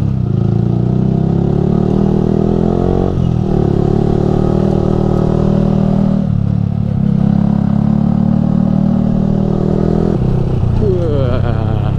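Yamaha R15 V3's single-cylinder engine through an aftermarket Ronin Musashi exhaust, pulling on the move. Its pitch climbs and then drops sharply about three and six seconds in, as it shifts up a gear.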